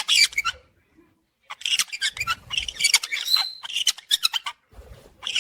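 Parrots chirping and squawking in quick, high-pitched bursts: a short burst at the start, then, after a pause of about a second, a longer run of rapid chatter.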